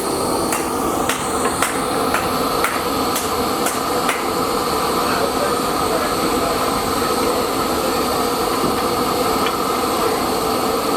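Hammer blows on hot spring steel being forged, about two ringing strikes a second, which stop about four seconds in. A steady mechanical running noise goes on underneath throughout.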